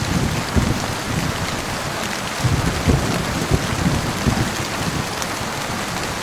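Heavy rain falling steadily, with low rumbles of thunder swelling and fading under it.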